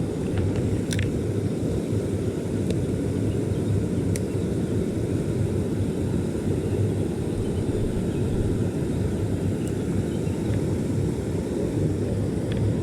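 Steady low rush of a small stream's flowing water, with a few faint sharp clicks scattered through.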